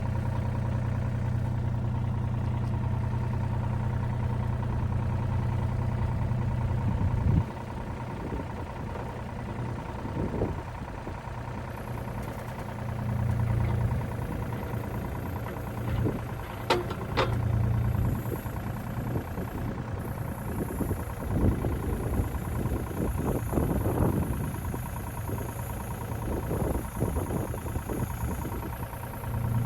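Diesel engine of a piece of construction machinery running steadily. About seven seconds in, the steady hum gives way to uneven surges in engine speed with scattered knocks and clanks as the machine works or moves. A faint high whine sounds in the middle.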